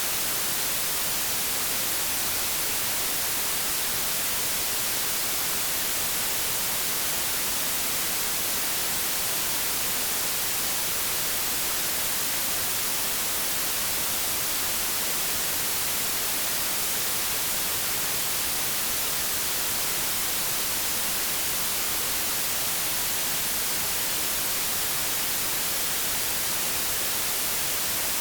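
Steady white noise static, an even hiss across the whole range that never changes.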